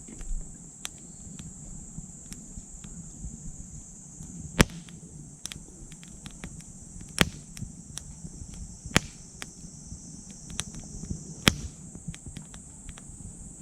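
Wood fire crackling in a small titanium wood stove, with frequent sharp pops, three of them louder than the rest. A steady, high insect chirring goes on behind it.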